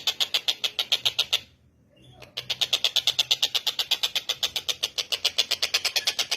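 Tengkek buto kingfisher calling a fast, even chatter of harsh 'kek' notes, about eight a second, breaking off for under a second near the start and then resuming.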